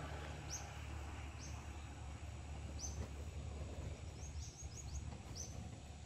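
A small bird's short, high chirps, spaced irregularly, with a quick run of four or five about four seconds in, over a steady low rumble.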